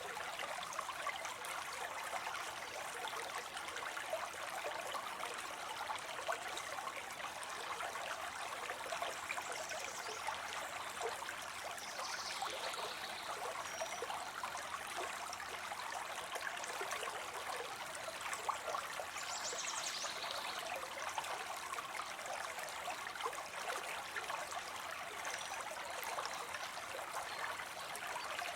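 Small waterfall spilling into a pond: a steady rush of falling water, even throughout.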